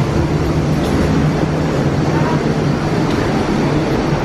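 Steady low engine drone heard from inside a moving vehicle, with a constant low hum under an even rumble.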